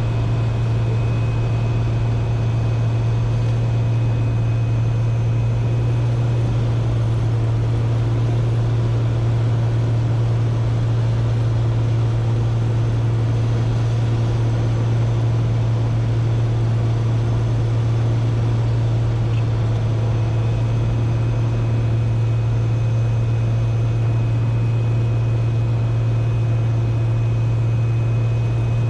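Cessna 210K's piston engine and propeller droning steadily in flight, a constant low hum with no change in pitch.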